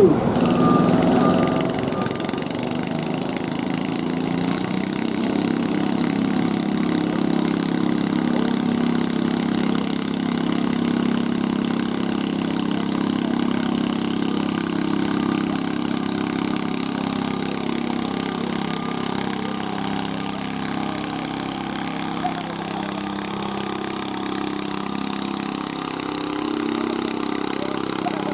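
Small garden tractor engine running steadily, with only slight changes in pitch.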